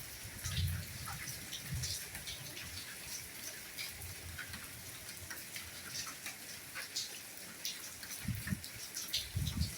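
Steady soft rainfall, with many individual drops pattering sharply and irregularly over the hiss of the rain. A few low, dull thuds come through, the loudest near the end.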